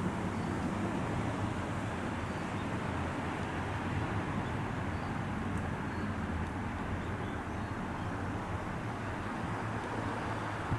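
Nose Electric Railway 7200 series train running on past the station, a steady low rumble that holds at an even level.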